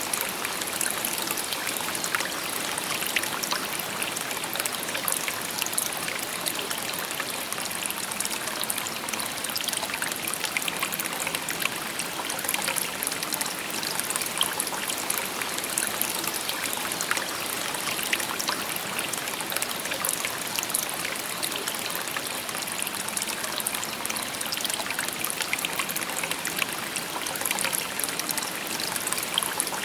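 Shallow river babbling steadily over stones, a continuous bright rush of water full of small trickles and splashes.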